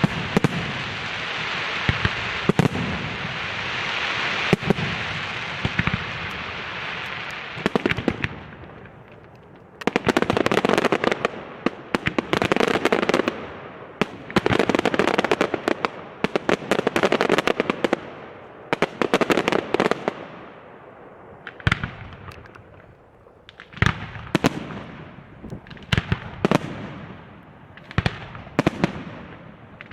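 Aerial fireworks display: a dense crackling wash with sharp bangs, then thick rapid-fire volleys of reports, then single loud shell bursts spaced a second or two apart.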